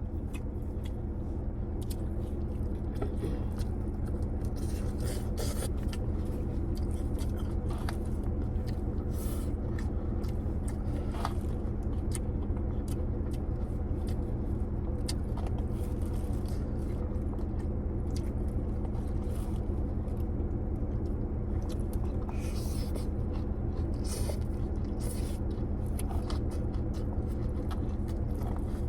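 A person eating takeout food, with small clicks and scrapes from the food container and chewing, over a steady low hum.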